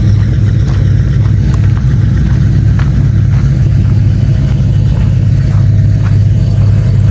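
A vehicle's V8 engine idling steadily just after a cold start, its low hum unbroken throughout.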